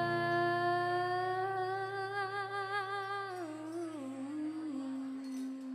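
A singer holds a long final note, wavering with vibrato from about a second and a half in, then slides down to a lower steady note. A low sustained instrument note underneath stops about five seconds in.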